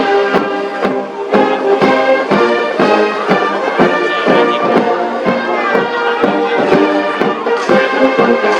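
Military brass band playing a march, with sharp clicks and hits scattered through the music.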